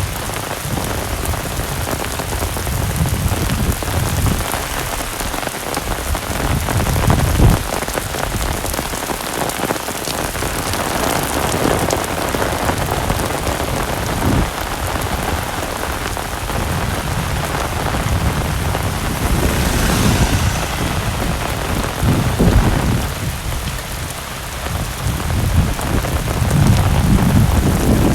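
Heavy rain pouring steadily onto surfaces, with a few low swells in loudness along the way.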